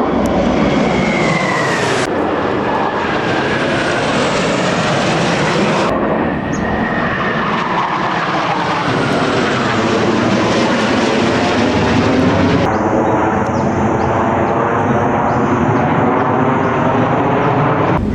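Jet aircraft flying past, a loud engine roar whose pitch falls as they go by, with the sweeping, phasing sound of a close pass. The sound changes abruptly a few times, about 2, 6 and 13 seconds in.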